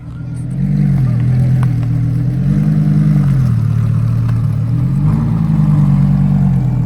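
Car engine running loud, its pitch rising and then falling back three times as it is revved.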